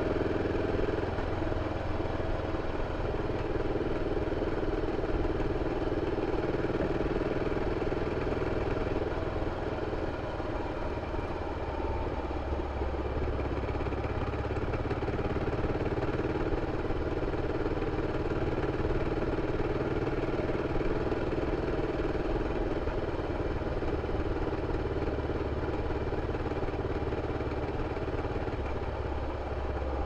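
BMW F 650 CS motorcycle's single-cylinder engine running steadily through its original exhaust.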